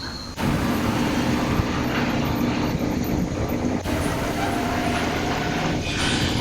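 Construction machinery running with a steady hum and clatter, broken by a few abrupt cuts in the sound.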